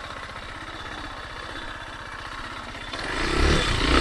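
Kymco KTR 150 motorcycle's single-cylinder engine running at low revs with an even, rapid beat of firing pulses. About three seconds in the throttle opens and the engine gets louder.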